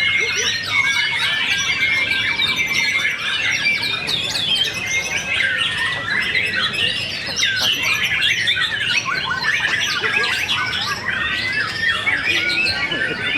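Many songbirds singing at once: a dense, unbroken chorus of overlapping whistles, chirps and trills.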